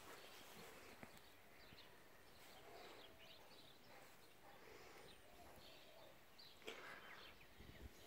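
Near silence with a few faint, short bird chirps and one slightly louder brief sound near the end.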